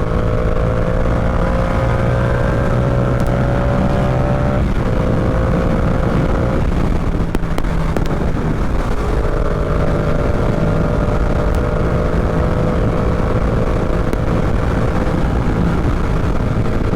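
Yamaha R7 parallel-twin motorcycle engine running under way, heard from the bike over a steady rush of wind. The engine note climbs slowly, drops abruptly about five seconds in, then holds steady.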